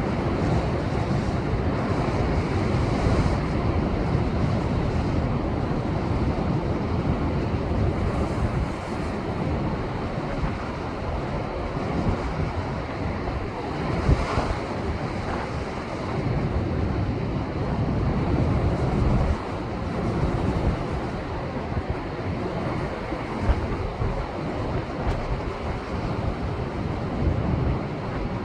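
Rough storm surf left by a passing typhoon crashing and washing against shoreline rocks, a continuous heavy rumble with a few sharper breaks standing out, and wind buffeting the microphone.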